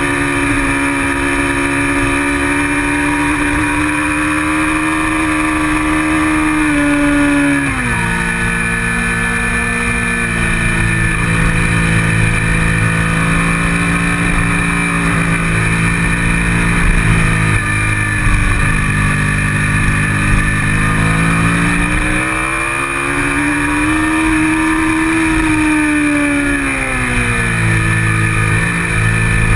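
Kawasaki Ninja 650R's parallel-twin engine running hard under race load. It holds a steady pitch, drops sharply about seven seconds in as it shifts up, then climbs and falls again near the end, with a low wind rumble underneath.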